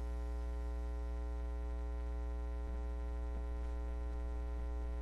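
Steady electrical mains hum with a stack of higher overtones, unchanging throughout.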